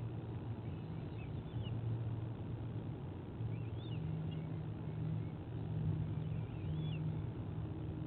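A few faint, short, high bird chirps over a steady low hum.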